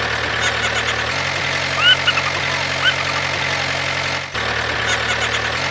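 Engine idling steadily with a low hum, with short rising bird-like chirps over it. It is one short recording looped, so the same chirps come back about every four and a half seconds.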